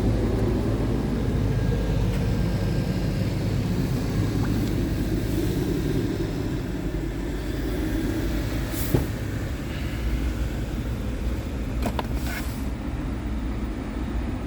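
Scania P truck's diesel engine running steadily, with a sharp click about nine seconds in.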